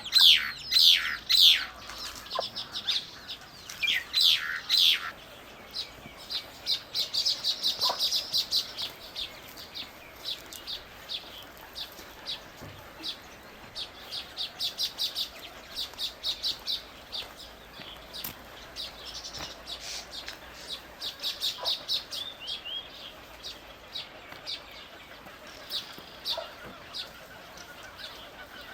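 Small birds singing and calling: a few loud, high notes sweeping downward in the first five seconds, then repeated fast trills of short, high chirps.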